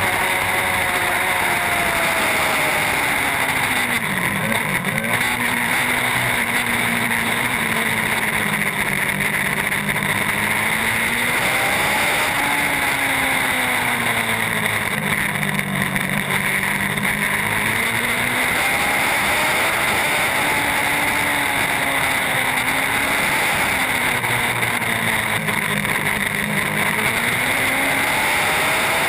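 Racing superbike engine pulling hard up through the gears, then dropping back under braking, in repeated cycles of climbing and falling pitch over a steady rushing noise.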